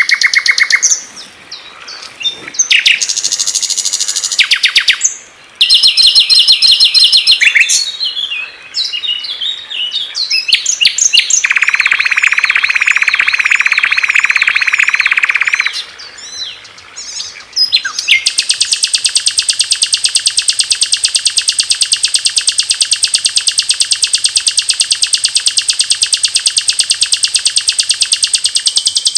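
Small songbirds singing loud, clear songs one after another. There are quick chirps and trills, then a lower, buzzing song about twelve seconds in, and from about eighteen seconds a long, very fast trill.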